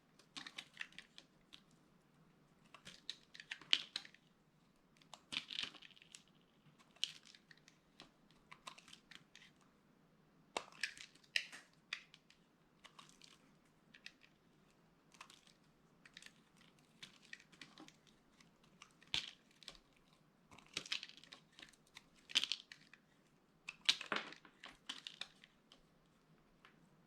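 Dry soap being crushed: crisp, irregular crunches and crackles, coming in short clusters every second or two.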